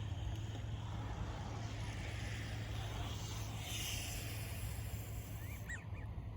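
Outdoor ambient noise: a steady low rumble under an even hiss, swelling briefly in the middle, with a few short high chirps near the end.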